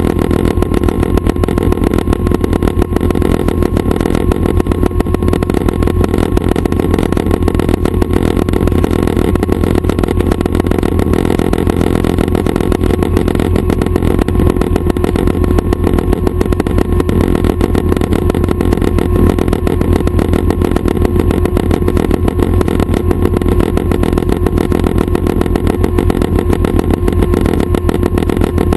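Schweizer 269 light helicopter's piston engine and rotors running steadily, a loud even drone with a strong low pulse.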